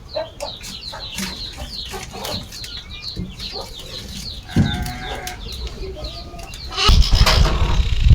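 Poultry calling: a run of short, high, falling peeps and a longer pitched call about four and a half seconds in, followed by a loud burst of rumbling noise from about seven seconds.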